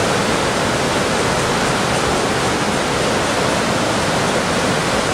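Steady, loud rush of fast-flowing mountain stream water, the Shihwen River tumbling over rocks or falls.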